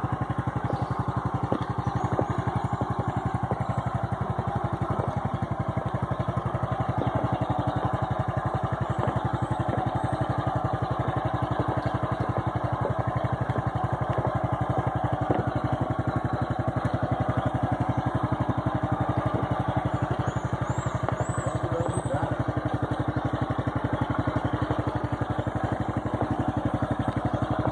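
Small motorcycle engine running steadily at low speed while the bike is walked along by hand.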